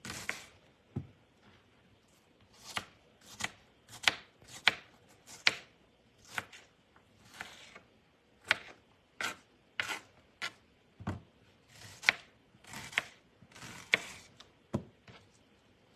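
Kitchen knife chopping an onion on a cutting board: single sharp chops, unevenly spaced at about one a second with short pauses.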